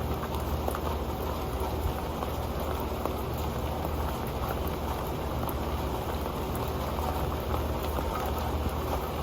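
Steady rain falling onto an old metal pan, a dense patter of drops with small ticks on the metal over the hiss of the downpour.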